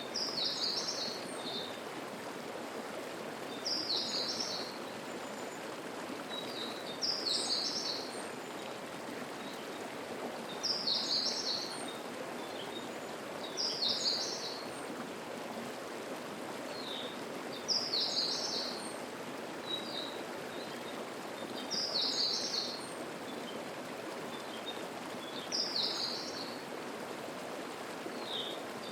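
Steady rush of a rocky mountain stream, with a songbird repeating the same short, high song phrase about every three and a half seconds.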